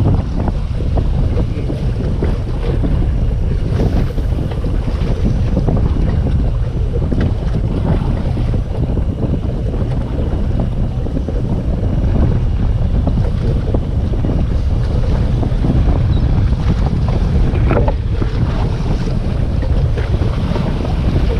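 Steady wind buffeting the microphone aboard a small fishing boat on open water, with waves washing against the hull.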